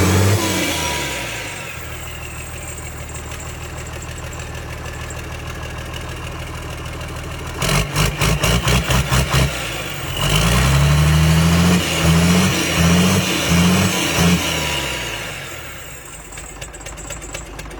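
Used diesel engine running: a steady idle, then a quick series of short blips, then several throttle revs rising and falling. Near the end it slows and dies away as it is shut down.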